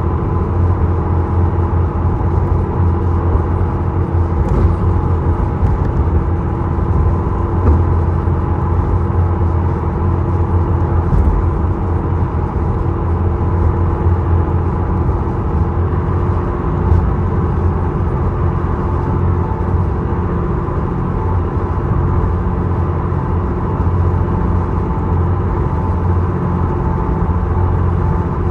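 Steady drone of a small ferry's engines heard on board: a strong low hum with a couple of steady higher tones over it, unbroken throughout.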